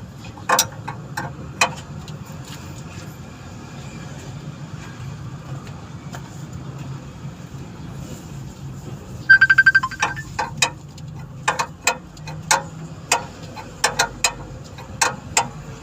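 Car engine idling steadily, with scattered sharp clicks and knocks from work around it, and a short run of about eight fast beeps about nine seconds in.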